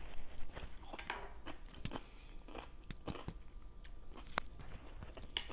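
A person chewing and biting food close to the microphone, with irregular clicks of the mouth and food.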